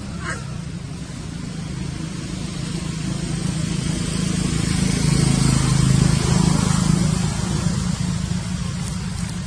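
A motor vehicle passing, a steady rumble that swells to a peak past the middle and then fades, with a brief faint squeak right at the start.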